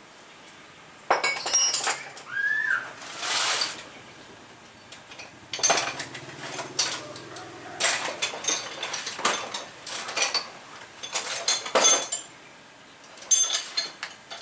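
Metal hand tools and parts clinking and clattering in irregular bursts, starting about a second in, with a short lull partway through.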